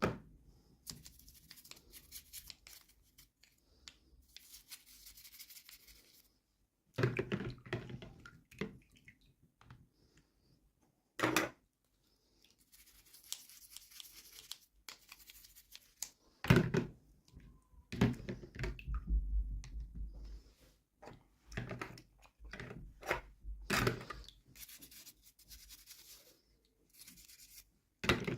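Hands unboxing small plastic toys: packaging rustling and tearing, with scattered sharp clicks and a few louder knocks as the pieces are handled.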